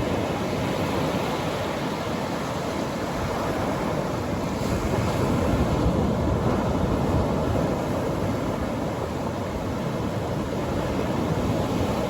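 Atlantic Ocean surf washing onto the beach, a continuous deep rush that swells gently as waves break, with some wind on the microphone.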